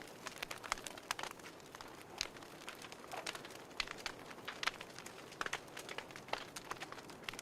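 Fireplace crackling: irregular sharp pops and snaps, a few each second, over a soft steady hiss.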